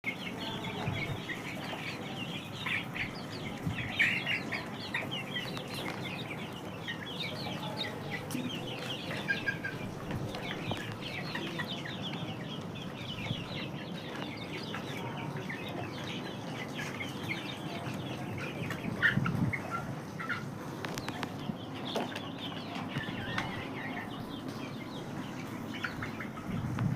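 A flock of chickens clucking and calling over and over, busiest in the first half, with a few sharp knocks later on.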